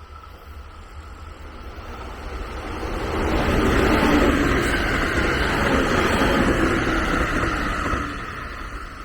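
A train passing close by. The noise builds over the first three seconds, stays loud for about five seconds, then drops away near the end.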